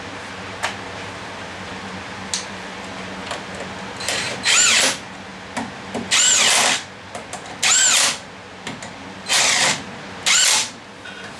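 Power drill running in five short bursts, each spinning up and back down in pitch, with a few light clicks between. This is the sound of a wheel on a Honda four-wheeler being fastened back on.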